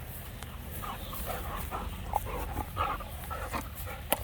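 A dog making a series of short, soft calls, with a sharp click near the end.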